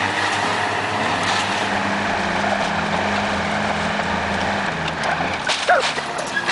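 A heavy vehicle's engine running steadily over road and wind noise, its note stepping up and down a little. A brief wavering higher sound comes near the end.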